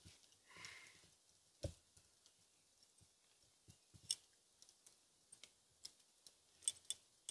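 Near silence broken by a few faint, scattered small clicks and taps, the clearest a little under two seconds in, about four seconds in, and a cluster near the end.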